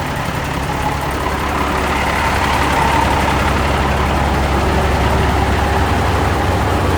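Military truck's diesel engine running steadily, a little louder from about two seconds in.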